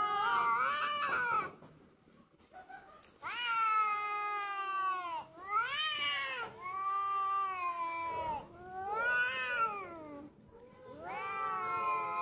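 Domestic cat caterwauling: a string of long, drawn-out yowls, each a second or two, rising and falling in pitch with short pauses between, the territorial yowling of a cat warning off another.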